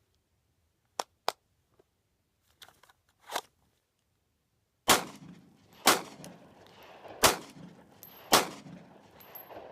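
A Glock 19 Gen4 9mm pistol firing four shots, about a second apart, each followed by an echo. Two small sharp clicks come a few seconds before the first shot.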